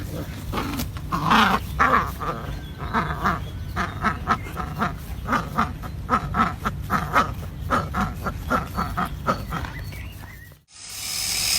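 Ducks quacking: many short calls in quick succession, several a second. It breaks off suddenly near the end, and a steady hiss follows.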